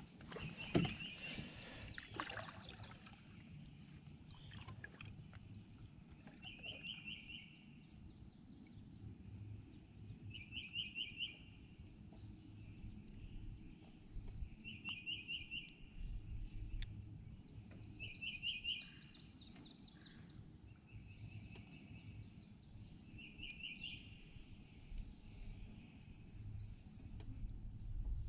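Swamp ambience: a small bird repeats a short, fast trilled phrase about every three to four seconds over a steady high insect hum.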